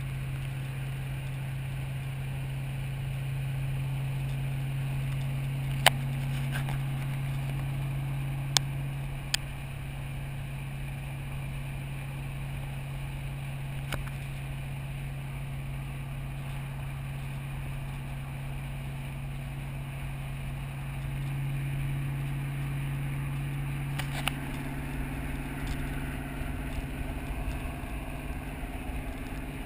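Fox-body Mustang V8 running at a steady cruise, a low drone heard from inside the car, swelling slightly twice. A few sharp clicks stand out, the first about six seconds in and two more a few seconds later.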